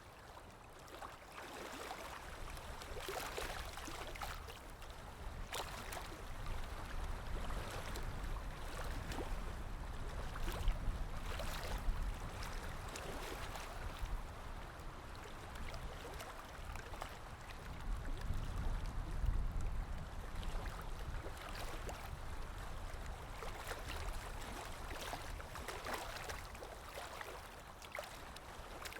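Water lapping, with many small splashes, over a low wind rumble that swells and eases twice.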